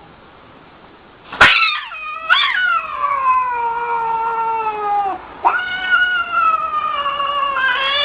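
A cat yowling in two long drawn-out calls, each sliding down in pitch. The first starts abruptly about a second and a half in, after a short quiet.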